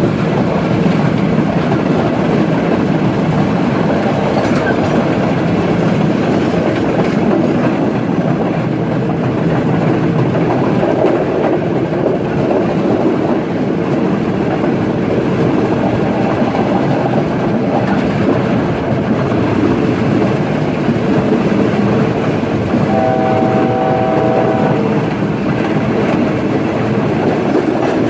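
Udaya Devi express train, diesel-hauled, running with a steady rumble of wheels on the rails. Near the end the locomotive's horn sounds one chord for about two seconds.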